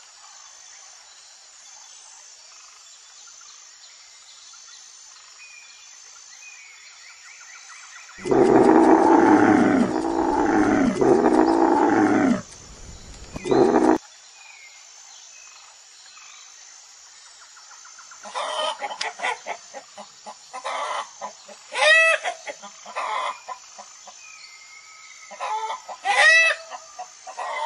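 A hippopotamus giving loud, deep honking grunts in three arching pulses, then one short grunt. Later a hen and a rooster clucking in a run of short calls.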